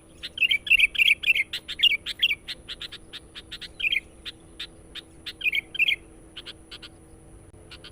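Sooty-headed bulbul (kutilang) calling insistently: rapid bursts of sharp chattering notes, densest in the first two seconds, with further bursts around four and six seconds and only scattered single notes near the end.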